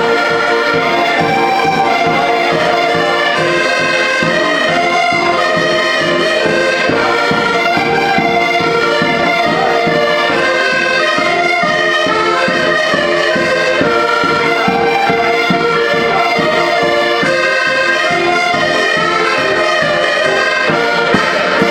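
Traditional Portuguese band music played live: a melody on accordion and brass over a steady, driving percussion beat, without a break.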